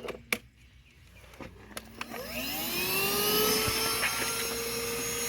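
Stihl SEA 20 battery-powered handheld vacuum: a few sharp clicks, then about two seconds in the motor spins up with a rising whine that settles into steady running.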